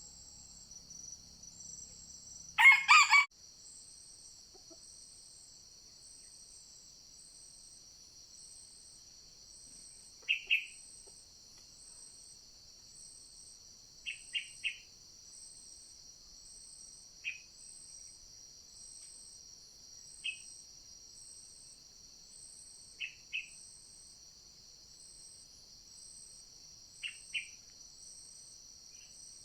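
A junglefowl rooster crows once, short and loud, about three seconds in, over a steady shrill insect chorus. From about ten seconds on, short high chirps come every few seconds, singly or in pairs.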